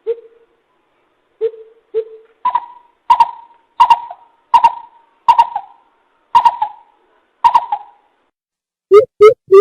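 Coucal calls played as a trapping lure: three low hoots, then a series of seven higher hoots spaced well apart, then a fast run of low hoots beginning near the end.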